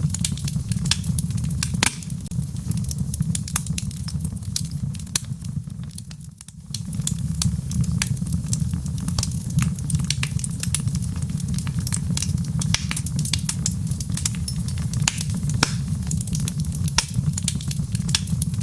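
Logs burning in a fireplace: a steady low rumble of flames with frequent sharp, irregular crackles and pops. The sound dips briefly about six seconds in, then carries on.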